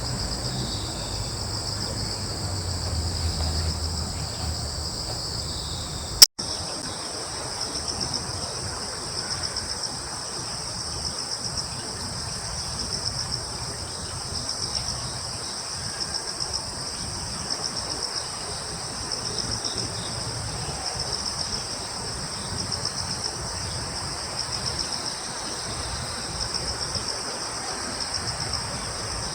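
Crickets and other insects chirping in a steady, high chorus with a pulsing beat. A single sharp click cuts through about six seconds in.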